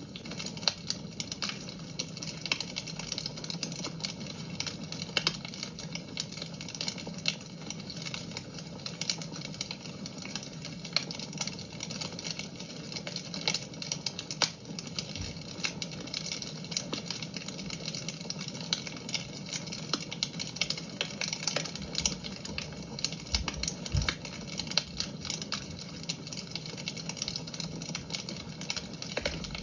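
Fire burning in a fireplace, crackling and popping in sharp, irregular snaps over a steady hiss, with a few soft low thuds in the second half.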